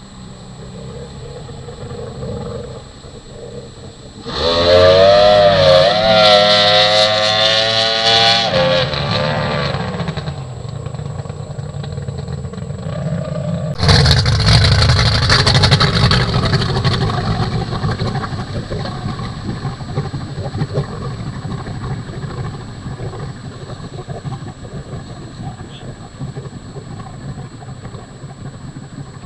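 Mercury STV racing outboard on a drag boat running hard at high revs. It comes in suddenly and loud about four seconds in with a wavering pitch for some four seconds and drops off, then bursts in again about halfway through and slowly fades away.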